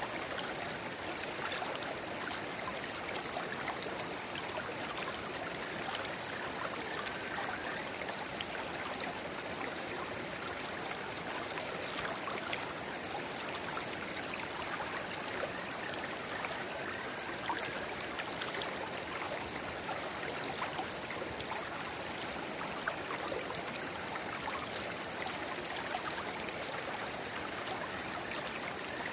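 A river babbling steadily, with a narrow spring-fed stream trickling and splashing into it; many small water ticks ride on a continuous rush.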